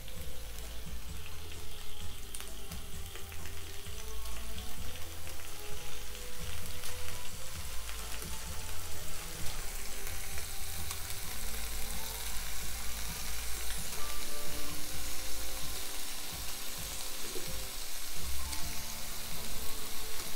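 Crumbled firm tofu frying in hot vegetable oil in a pan: a steady sizzling hiss that grows louder partway through.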